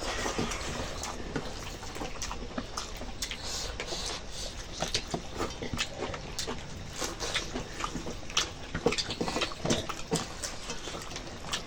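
Close-up eating sounds of rice with chicken curry: chewing and lip smacks, many short clicks at irregular spacing.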